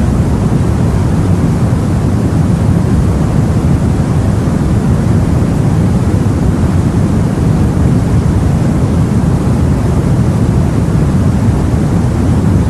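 Steady, deep rushing noise of sea and wind, heavy in the low end, with no separate wave breaks or other events standing out.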